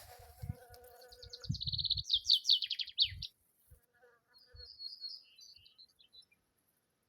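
A honeybee buzzing at acacia blossoms for the first second and a half. A songbird overlaps it with a fast high trill sliding into a run of falling notes, then a shorter high phrase about four seconds in.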